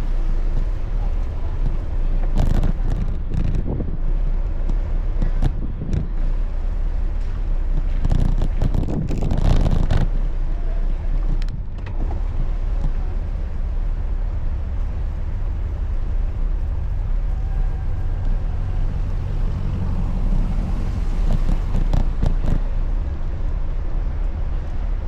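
Wind noise on the microphone and road traffic noise while riding a bicycle, steady throughout, with a louder swell about eight to ten seconds in.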